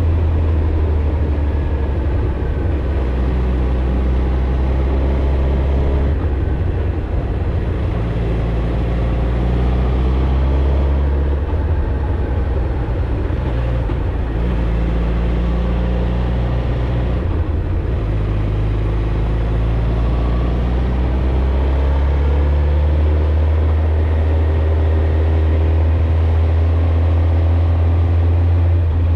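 Suzuki GSX-R1000's inline-four engine and exhaust running under way on the road, a steady low exhaust note that changes pitch several times as the revs change, over a steady rush of wind noise.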